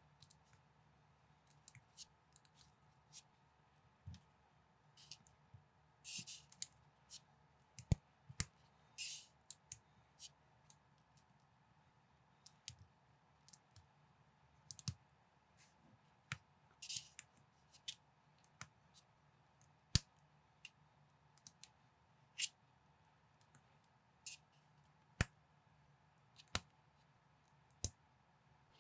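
Plastic building bricks clicking and snapping together by hand as a model is assembled: irregular sharp clicks, several close together, with a few short scraping sounds.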